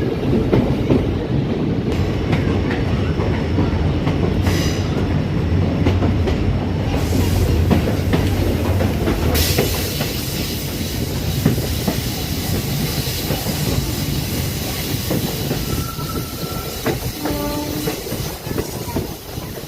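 Passenger train running on the rails, heard from on board: a steady rumble of wheels on track with clicking over the rail joints. About halfway through the low hum drops away and a brighter hiss takes over.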